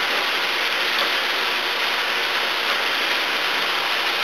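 Onions and tomato paste sizzling in a frying pan: a steady, even hiss with no breaks.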